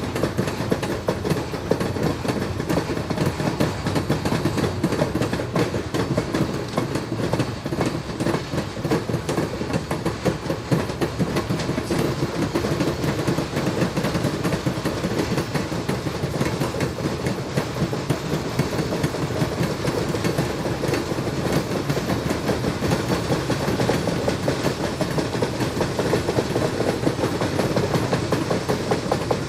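An ALCo S1 diesel switcher moving a cut of freight cars, its engine running under load amid the steady clatter and clickety-clack of the cars rolling over the rails.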